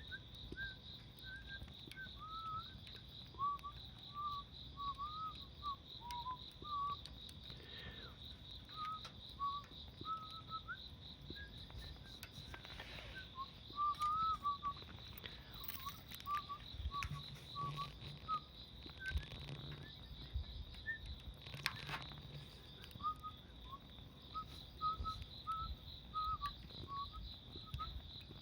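Outdoor night ambience: insects trilling steadily in a high, evenly pulsing tone, with short wavering squeaky whistles and chirps coming and going throughout and a few faint pops.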